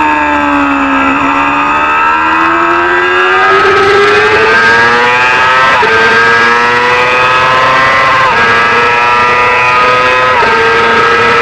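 Race motorcycle engine, a small-displacement supersport bike, slowing with falling pitch, then accelerating hard through the gears: a rising note broken by four quick upshifts about two seconds apart.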